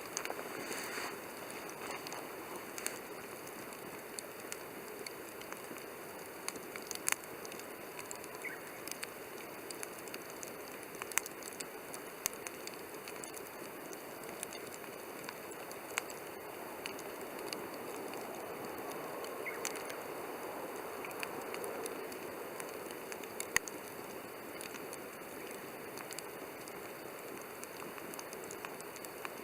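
Wood campfire burning: a steady soft hiss with scattered sharp crackles and pops, a handful of them louder.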